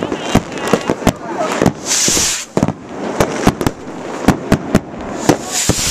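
Fireworks and firecrackers going off in rapid succession, many sharp bangs a second. Two stretches of hissing come through, one about two seconds in and one near the end.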